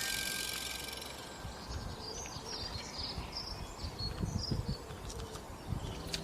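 The tail of a music track dies away, leaving faint background ambience: a low hiss with soft, short high-pitched chirps and a few low rumbles.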